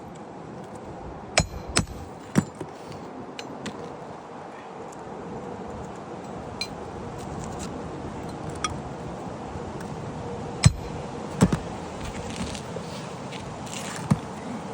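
Scattered sharp taps and metallic clinks of hand tools, hammer-type strikes, during asphalt shingle roof repair work. There are about six loud strikes, three close together at the start and the rest spread out with long gaps, over a steady outdoor hiss.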